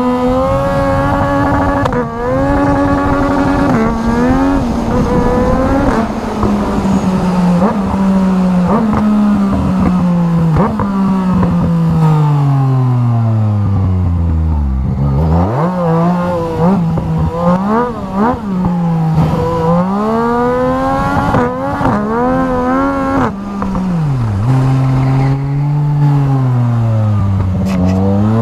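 Motorcycle engine under hard acceleration, the revs climbing and dropping sharply at each quick upshift, then falling off in a long steady glide as the bike slows about halfway through, before revving up through the gears again.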